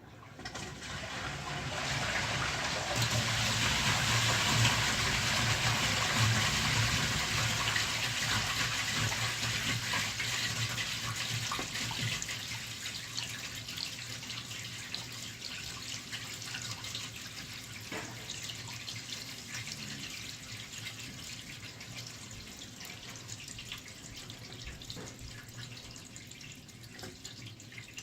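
Toilet flushing: water rushes in about half a second in and is loudest for the first several seconds. It then fades slowly into steady running water.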